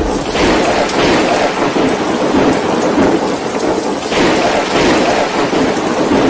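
Violent storm: a loud, steady rush of heavy rain and wind with a deep rumble.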